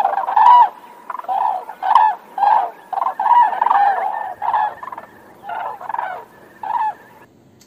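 A bird calling over and over: about a dozen short, harsh calls in quick succession, which stop a little before the end.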